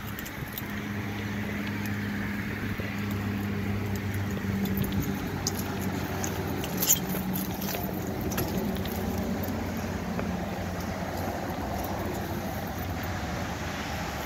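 A motor vehicle's engine running, a steady low hum under road noise that fades out about eleven seconds in, with a couple of sharp clicks about seven seconds in.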